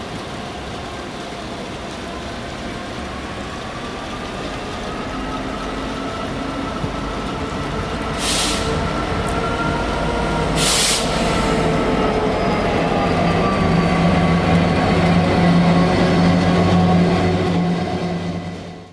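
A train approaching and passing, growing steadily louder, with a low engine note that is strongest in the last few seconds. Two short bursts of high hiss come about eight and eleven seconds in.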